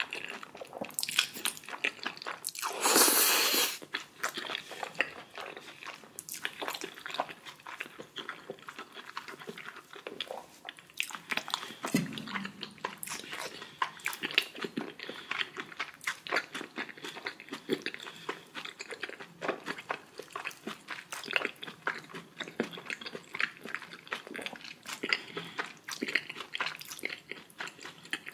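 Close-miked eating sounds: a person chewing and biting food, with wet clicks and crunches throughout. A louder burst of noise lasts about a second near the start, and a single low thump comes about twelve seconds in.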